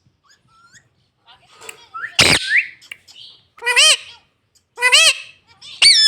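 Pet Indian ringneck parrot squawking: a few faint chirps, then one loud call a little past two seconds in, followed by three short arched calls about a second apart.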